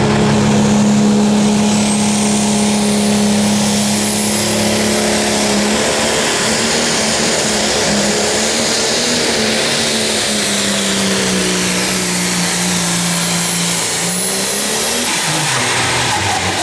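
Massey Ferguson Pro Stock pulling tractor's turbocharged diesel engine at full throttle under the load of the sled, with a high whistle over it. The engine note holds steady, then slowly drags down as the load builds, picks up briefly and falls away near the end as the pull finishes.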